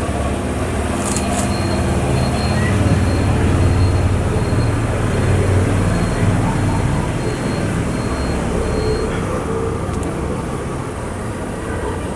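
Low engine rumble of a passing motor vehicle, growing louder over the first few seconds and then slowly fading.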